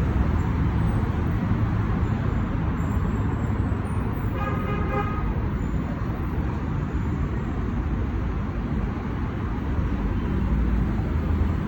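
Road traffic running steadily, with a vehicle horn sounding once for about a second near the middle.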